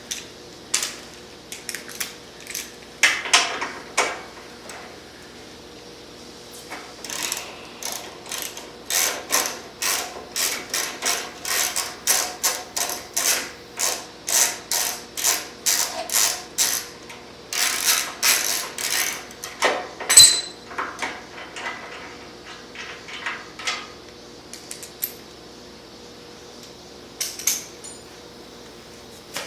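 Socket ratchet clicking in runs of quick strokes, loosening the nuts and bolts of a motorcycle's stock exhaust. A single sharp metallic clink rings out about twenty seconds in.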